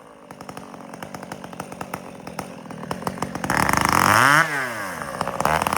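Two-stroke chainsaw idling with a rapid ticking beat, then revved up twice: once, falling back about four and a half seconds in, and again near the end.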